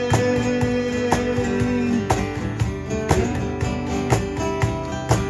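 Live acoustic guitar being strummed in a steady rhythm, with sustained notes over the strums and no singing.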